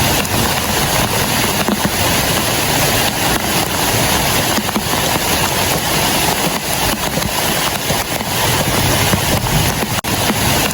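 Heavy rain pouring steadily onto a clear plastic tarp shelter, a dense, even noise that drops out for a split second near the end.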